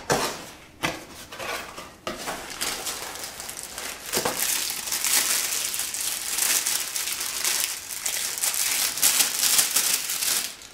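Plastic packaging crinkling and rustling as camera accessories are unwrapped, a few separate rustles and clicks at first, then a steady crackle from about four seconds in.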